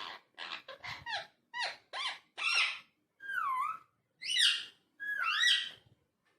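Ringneck parakeet calling: a quick run of short chirps and squawks, then three longer whistled calls that dip and rise in pitch.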